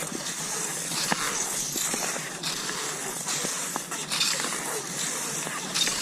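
Cross-country skis swishing over snow in a steady stride, the hiss rising and falling about once a second, with a few light clicks.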